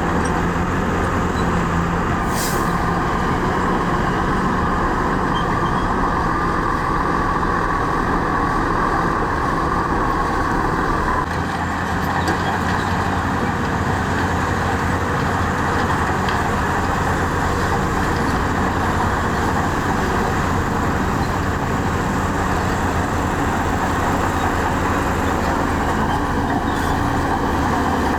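Heavy diesel earthmoving machinery running steadily under load, with a high whine over the engine noise from about two seconds in until about eleven seconds.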